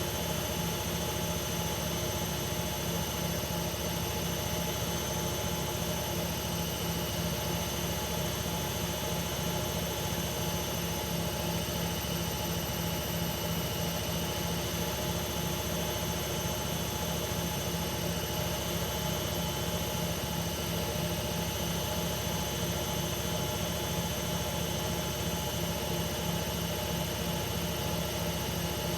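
Hoover Ecologic Computer Washer 1300 washing machine spinning at a steady high speed, a constant motor whine and drum rush with several steady tones and no change in pitch.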